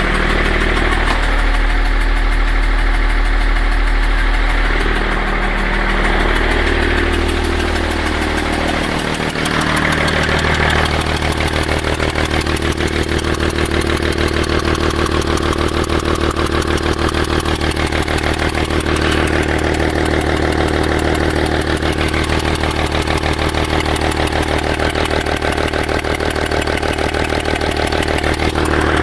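BMW E39 530d's straight-six turbodiesel idling steadily with its intake manifold removed, run to warm up the injectors. The sound dips briefly and changes about nine seconds in.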